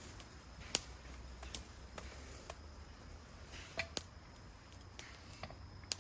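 Irregular sharp clicks and snaps, about nine in all and unevenly spaced, the loudest about a second in, over a faint steady background.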